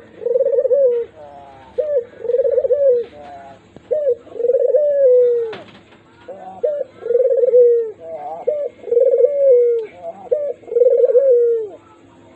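A dove cooing over and over, roughly every two seconds. Each call is a short note followed by a longer coo that falls away at the end. There is a single sharp click midway.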